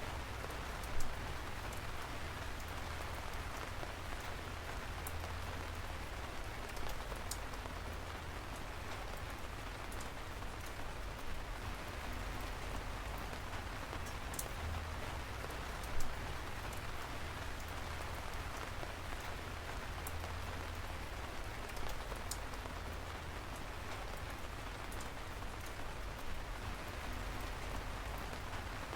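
Steady rain falling, an even hiss with scattered sharp ticks of single drops striking close by, two of them louder, about a second in and about halfway through.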